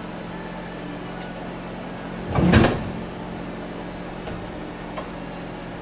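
A steady low hum, with one loud clunk about halfway through and a couple of faint clicks after it.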